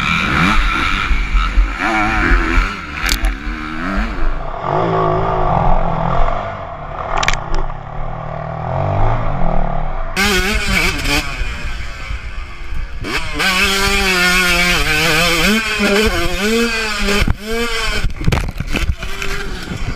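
Motorcycle engines running and being revved, their pitch rising and falling over and over, with a heavy low rumble. The sound changes abruptly about halfway through.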